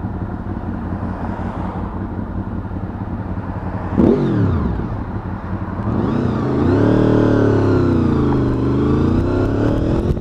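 Motorcycle engine under way with steady road and wind noise. About four seconds in there is a sharp blip of revs that falls straight away. From about six seconds the bike pulls away, its engine pitch rising, dipping and rising again.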